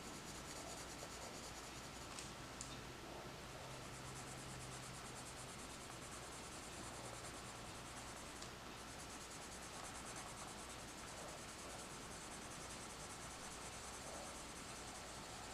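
Colored pencil shading on paper: faint, rapid back-and-forth scratchy strokes, with a short break about eight seconds in.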